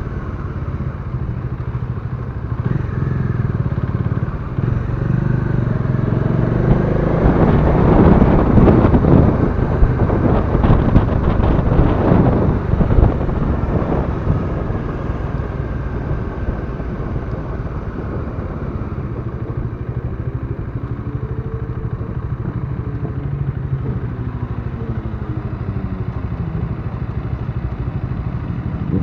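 A Bajaj Dominar 400's single-cylinder engine runs while the motorcycle is ridden, with rushing noise that grows louder for several seconds around the middle. Later the engine pitch rises and falls as the revs change.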